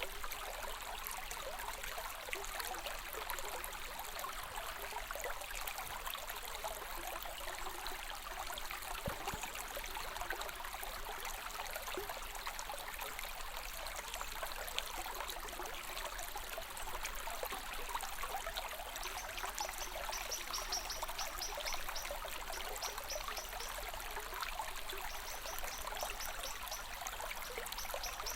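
A stream of water flowing steadily. Twice in the second half a high, rapid trill sounds over it.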